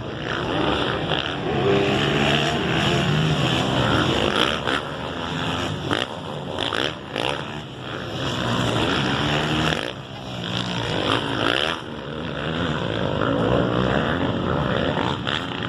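Several 450cc four-stroke motocross bikes racing on the track, their engines revving up and falling back over and over as the riders work the throttle.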